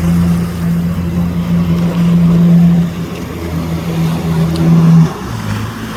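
Motorboat engine running at a steady pitch, then throttling down to a lower, quieter note about five seconds in.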